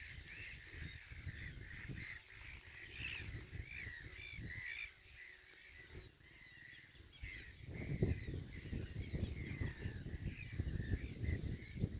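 A flock of wetland birds calling, with many short, overlapping calls throughout and a low, uneven rumble beneath them.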